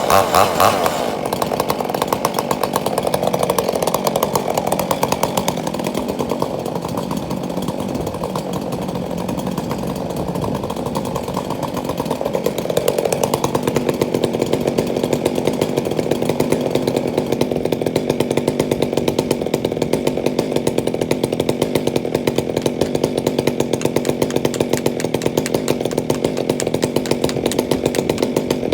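Two-stroke chainsaw running and cutting wood. Its engine note shifts about halfway through and then holds steady.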